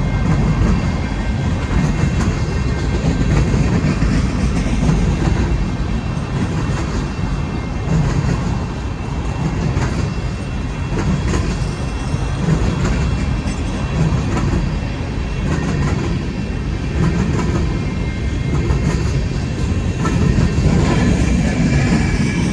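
Freight train cars rolling past close by: a steady, loud rumble with the wheels clicking over rail joints.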